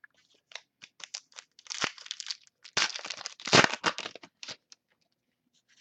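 Plastic trading-card pack wrapper being torn open and crinkled: a run of irregular crackling rustles, loudest a little past the middle.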